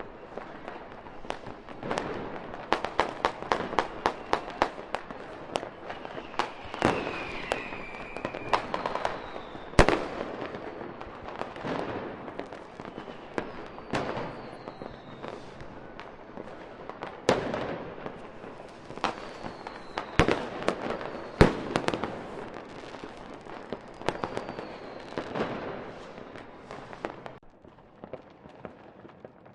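Fireworks going off: sharp single bangs and fast strings of crackling reports, with a few faint falling whistles between them. It dies down near the end.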